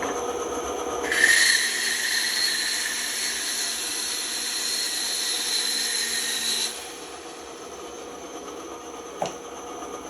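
Band saw blade cutting through wood: a steady hiss with a whine over the motor hum, starting about a second in and stopping about two-thirds of the way through. After that only a low hum remains, with a single click near the end.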